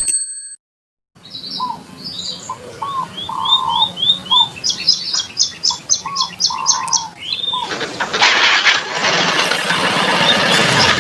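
A short bright chime, then birds chirping and whistling in quick repeated notes. About eight seconds in, a louder steady rushing noise comes in over them and keeps going.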